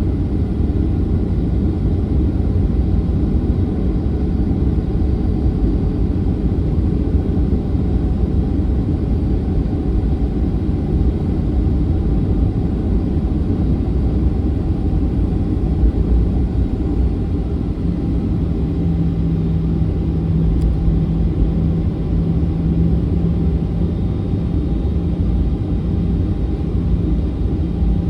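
Boeing 737-900's CFM56-7B jet engines and airframe giving a loud, steady rumble. A low steady hum joins about two-thirds of the way in.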